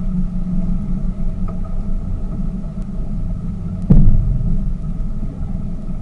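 Tour boat's engine running with a steady low drone and hum. A single loud thump about four seconds in.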